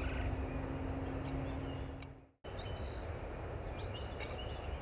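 Steady low outdoor background noise, cut by a brief dropout a little past halfway; after it a bird chirps repeatedly, short high chirps about three a second near the end.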